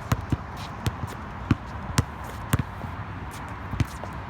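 A ball bouncing on a hard floor: about seven separate knocks at uneven spacing, over a steady hiss.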